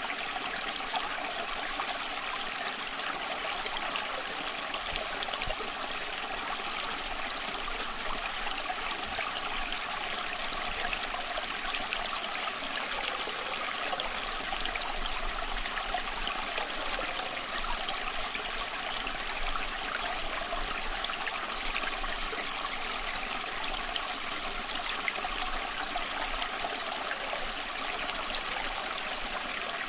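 Stream water flowing and trickling over stones, a steady babbling.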